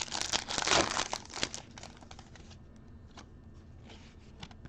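Trading-card pack wrapper crinkling and tearing as it is opened, loudest in the first second and a half, then only a few faint ticks and rustles.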